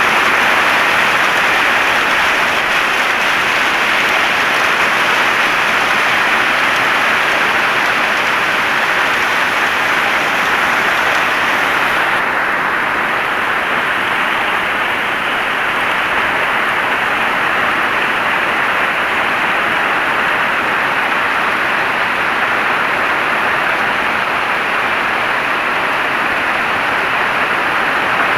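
Heavy rain falling steadily, a dense even hiss. About twelve seconds in the brightest, highest part of the hiss drops away suddenly, leaving a slightly duller sound.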